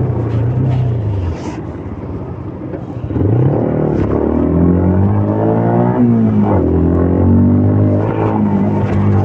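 CFMOTO Papio 125's single-cylinder engine on the move: it eases off and drops in level for a moment, then from about three seconds in it accelerates hard, revving up with the pitch dropping back at each gear change.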